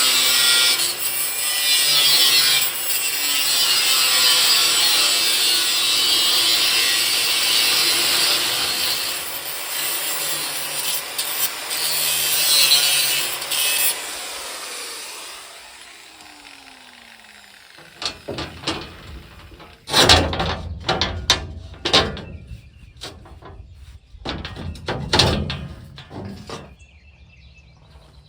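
Angle grinder with a flap wheel grinding rust and paint off bare steel, then switched off and winding down with a falling tone about halfway through. Several sharp clanks and knocks follow.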